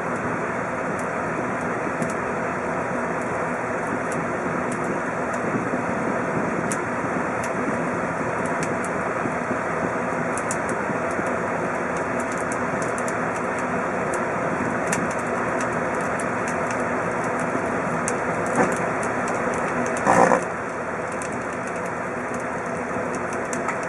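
Kenmore microwave oven running with a steady hum while an iPhone 4S cooks inside, with scattered faint crackles. A short, louder crackling burst comes near the end.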